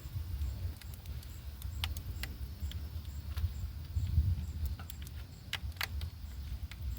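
Scattered light clicks and taps of plastic and metal parts and hand tools being handled while vacuum hose connections are made in a car's engine bay, over a steady low rumble.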